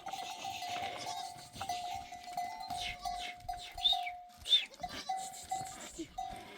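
Sounds of a herd of sheep and goats: a steady ringing tone repeats in short, even pulses, with two short high chirps about two-thirds of the way through.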